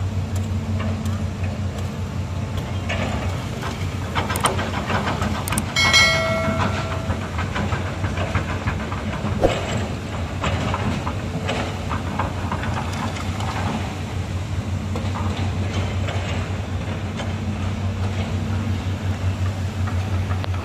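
Hydraulic excavator's diesel engine running steadily, with frequent metallic clanks and knocks from the machine working. A brief, loud, high metallic squeal comes about six seconds in.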